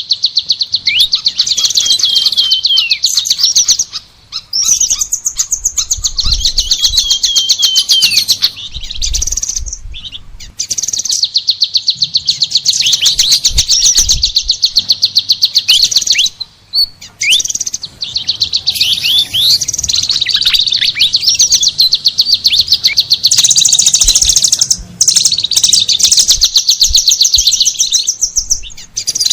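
Songbird song in long, very fast rattling trills mixed with short whistled slurs, broken by a few brief pauses.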